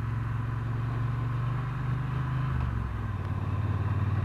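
Triumph Bonneville T120's parallel-twin engine running steadily on the move. Its note changes about three seconds in and then carries on slightly louder.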